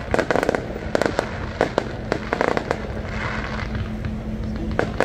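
Aerial fireworks going off in a rapid series of sharp bangs and crackles, thinning out about three seconds in, with one more bang near the end.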